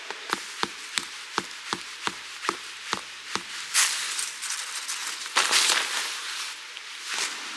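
A quick series of about ten sharp wooden knocks, roughly three a second, like wood being chopped, followed by two longer scraping rustles.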